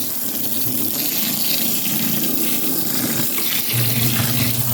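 Water running steadily into the wash tub of a twin tub portable washing machine as it is topped up. A steady low hum comes in near the end.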